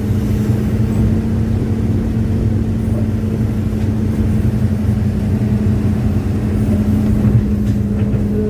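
Hitachi excavator's diesel engine running at a steady speed: a low, even rumble with a constant hum that holds its pitch.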